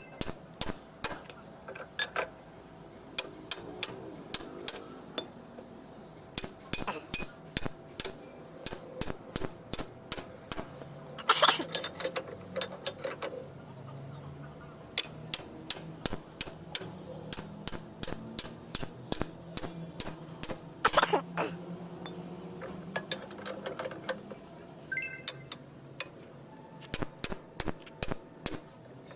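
Hand tools clicking and clinking against metal parts in quick, irregular strokes, with louder clattering knocks about 11 and 21 seconds in.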